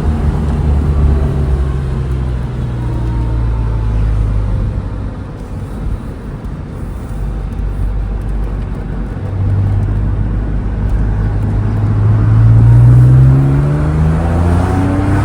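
Porsche 911 Carrera S's 3.8-litre flat-six engine driving. It holds a steady note, eases back in the middle, then rises in pitch and grows louder as the car accelerates in the last third.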